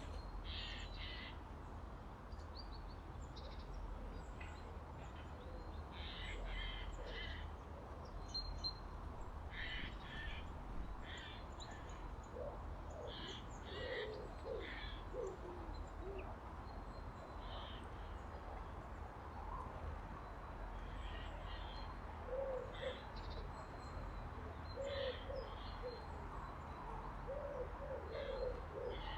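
Birdsong in winter woods: tits give short, high chirping calls scattered throughout, and a pigeon coos in low, repeated phrases, mostly in the second half.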